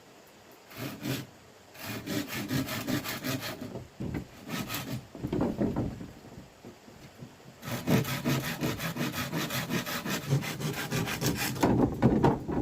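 Hand saw cutting wood with quick, even back-and-forth strokes, in two long bouts with a short one between.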